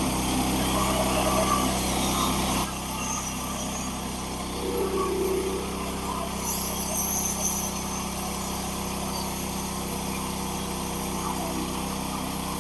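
Hudson Patriot band sawmill running steadily as it saws a log, its engine droning evenly; the sound drops a little about two and a half seconds in.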